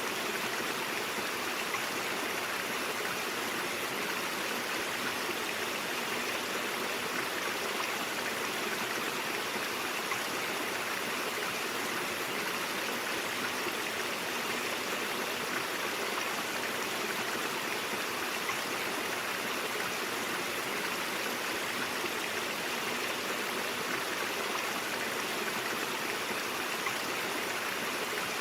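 Mountain brook water flowing steadily over rocks, an even rushing and babbling.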